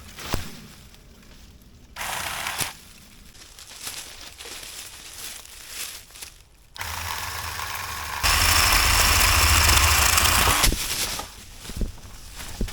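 Electric chainsaw running, its motor humming from about seven seconds in and then cutting through a wooden pole for about two and a half seconds, the loudest part, before stopping. Shorter bursts of noise come earlier.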